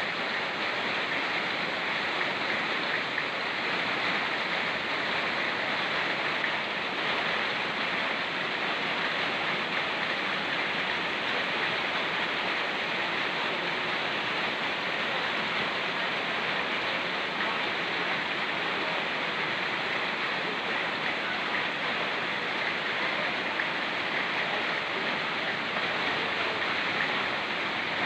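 Rain falling together with a fast-flowing mountain stream: a steady, unbroken rushing hiss of water.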